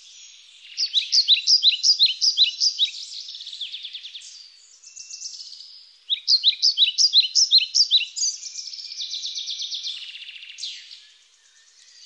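A small bird singing: two long runs of quick, downward-sliding chirps, about five a second, each running on into a faster, buzzier trill, with one last falling note near the end.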